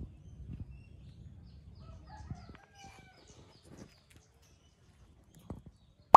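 Faint outdoor ambience with a distant bird call, about two to three seconds in, over a low rumble. The sound then drops to near silence, and a sharp plucked click comes right at the end.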